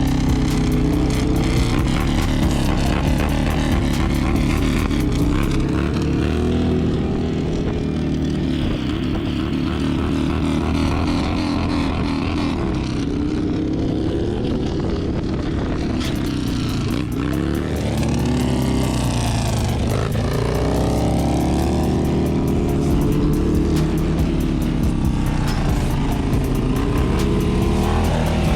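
Sport bike engine running, its pitch rising and falling repeatedly as the throttle is opened and rolled off.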